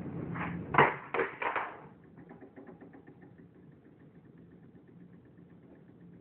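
Four sharp knocks in quick succession, then a small motor running steadily with a fast, light ticking.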